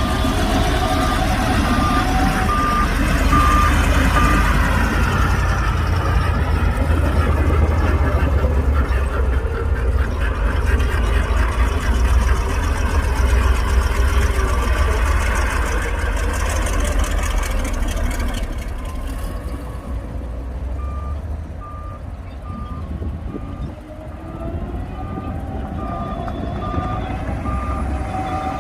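Heavy diesel engine of a Shantui DH17C2 bulldozer working under load, its deep rumble easing about two-thirds of the way through. A reversing alarm beeps at an even pace for the first few seconds and again over the last several seconds.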